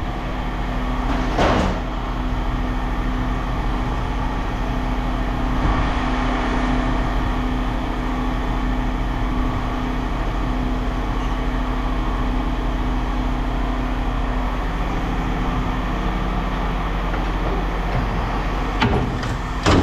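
An engine running steadily at a constant speed, with a short clank about a second and a half in and another near the end.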